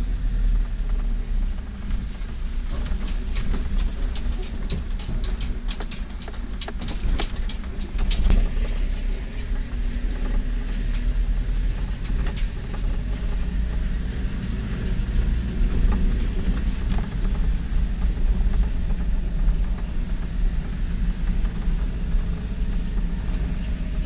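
A vehicle on the move: a steady low rumble of engine and road noise, with a run of rattles and knocks a few seconds in.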